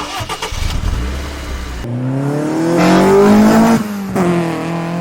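Car engine accelerating hard: its pitch climbs, drops briefly just before four seconds in, then climbs again. Before it there is a rough, noisy rumble that cuts off sharply at about two seconds.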